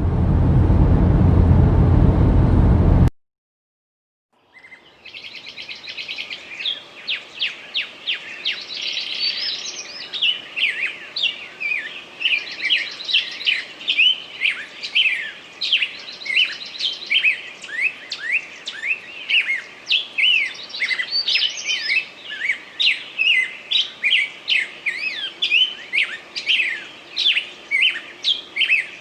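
A loud rushing noise for about three seconds that cuts off suddenly, then after a second of silence many small birds chirping busily, with quick, overlapping high calls that continue to the end.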